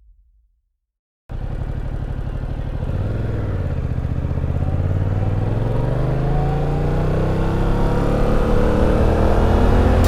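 Yamaha FZ-07 motorcycle's parallel-twin engine running, cutting in suddenly about a second in, its pitch rising slowly as the bike accelerates.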